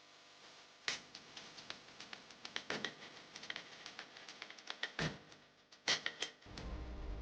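Irregular run of small clicks and ticks from a lock pick being worked in a safe lock, with a few louder clacks about a second in and around five and six seconds in. A low hum starts near the end.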